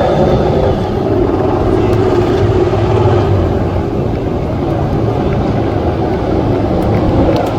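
Loud, steady engine noise from motor vehicles, with a dense low rumble and several held engine tones.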